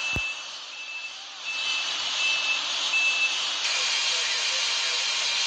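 A vehicle's reversing alarm beeping five times, about every 0.7 s, over a steady hiss of outdoor background noise. The beeps stop about three and a half seconds in, and the hiss then grows louder.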